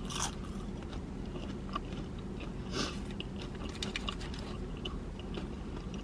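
A person chewing and biting into a breaded chicken sandwich, with wet mouth clicks and a couple of louder crunchy bites, near the start and about three seconds in. A steady low hum runs underneath.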